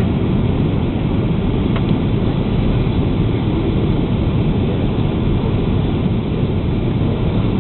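Steady roar of an Airbus A330's jet engines and rushing air, heard from inside the passenger cabin during the landing.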